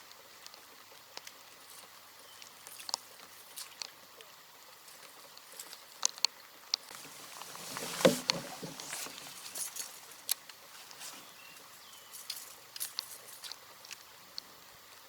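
Scattered raindrops tapping irregularly on the kayak and the camera, with a louder knock about eight seconds in.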